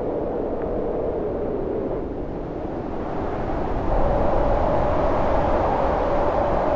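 Howling storm wind, a steady rushing noise with a wavering moan that rises in pitch and grows louder about four seconds in.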